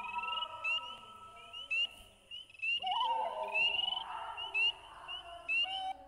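Birds chirping: many short, quick rising chirps overlap and repeat, over a lower held whistled note at the start and another that rises and holds from about halfway.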